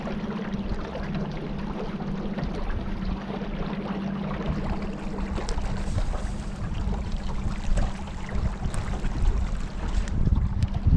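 Small boat's motor running steadily with a constant hum, over rushing water and wind noise.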